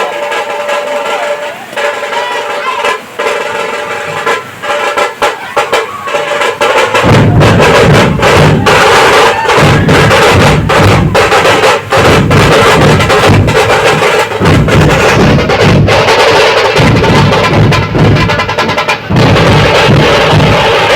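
Loud festival music with drums: a pitched melody over sharp clicking percussion, then heavy low drumming comes in about seven seconds in and the music grows much louder.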